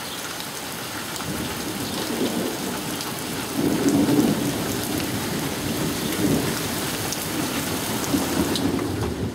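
Heavy thunderstorm rain hissing and pattering on a surface, with a deep rumble of thunder swelling about four seconds in and rumbling on more faintly afterwards. The rain noise drops away sharply at the very end.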